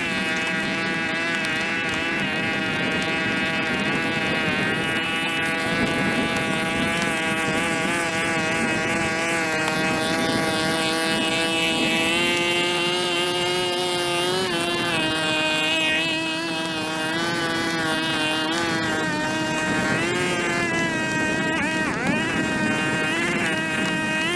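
Small petrol engine of a handheld power tool running at high speed. Its pitch holds steady at first, then dips and climbs back several times in the second half as the throttle is eased and reopened.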